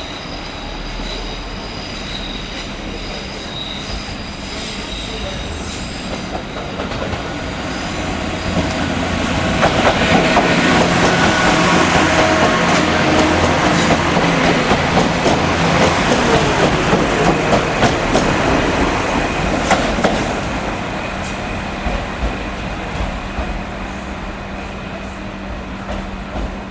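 A train running by on the rails. It grows louder over the first several seconds and is loudest for about ten seconds in the middle, with a quick clatter of wheels over rail joints, then eases off. A steady low hum is left near the end.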